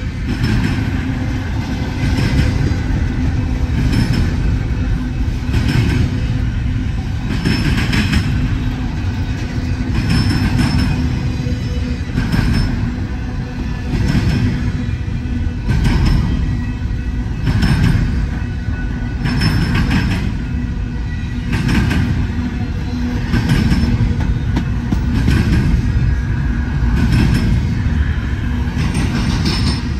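Union Pacific double-stack intermodal train rolling past at close range: a steady heavy rumble of well cars, with loud wheel clacks repeating about every two seconds as the car trucks go by.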